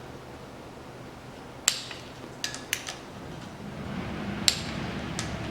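Click-type torque wrench clicking as the camshaft cap bolts reach the 30 Nm setting, two sharp clicks about three seconds apart, with lighter metallic clicks of the wrench and socket in between. A low rumble builds in the second half.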